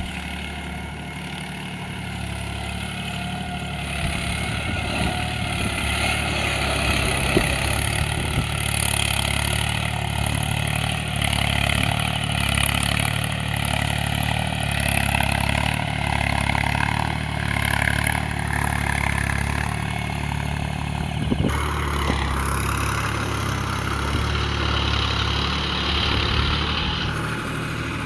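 Engine of a homemade mini tractor running steadily, its sound changing abruptly about three-quarters of the way through.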